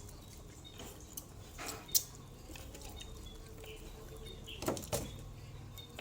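Eating sounds: a few short clicks and crunchy knocks over a low steady hum, the sharpest about two seconds in and two more close together near the end.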